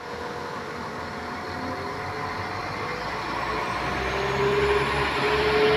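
Class 195 diesel multiple unit pulling away, its engines and transmission building up: a low rumble with a whine that slowly rises in pitch as the train gets louder.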